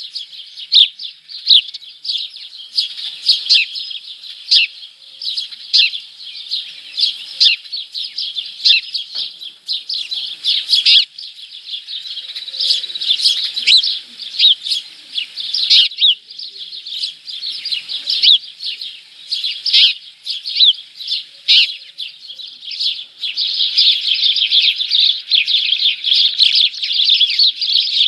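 Small birds chirping and tweeting in quick, overlapping calls, with no break. The chatter grows denser and more continuous near the end.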